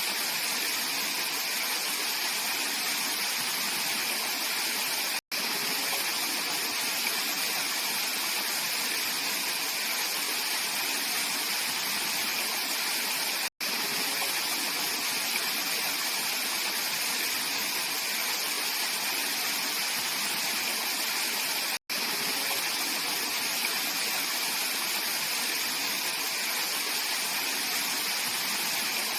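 Mountain valley stream flowing, a steady dense rush of water. Three split-second dropouts about eight seconds apart.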